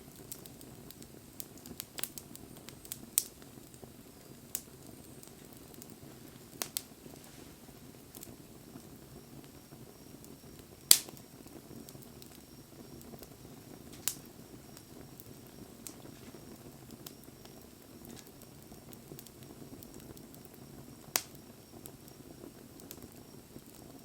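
Wood fire burning, with a low steady rush of flame and scattered sharp pops and crackles from the burning wood, the loudest about eleven seconds in.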